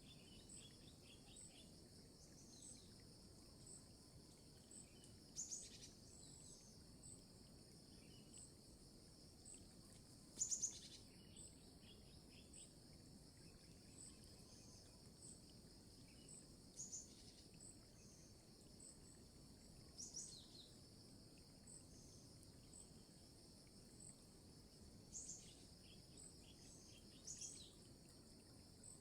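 Faint, steady chorus of insects such as crickets, with a regular chirp about once a second, and a few short, high bird chirps, the loudest about ten seconds in.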